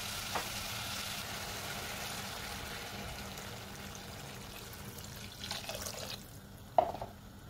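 Onions and tomato paste sizzling in oil in a pot, the hiss slowly dying down as a stream of water is poured in. A single sharp knock near the end.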